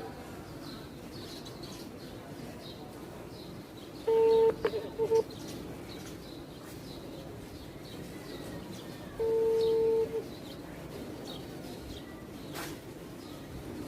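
Phone ringback tone heard through the phone's speaker: two steady beeps of about a second each, about five seconds apart, while the call rings unanswered. Birds chirp faintly throughout.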